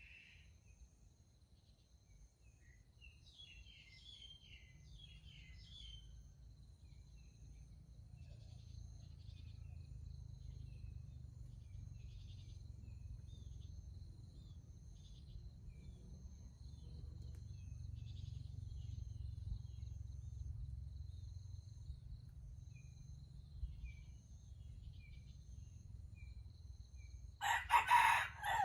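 A junglefowl rooster crows once, loud and short, near the end. Before it, small birds chirp now and then and insects trill steadily over a low, steady rumble.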